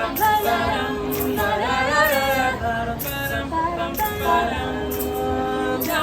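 A small mixed a cappella group of men and women sings in close harmony. Several voices hold chords under a lead line that slides between notes, and a short crisp hiss marks the beat about once a second.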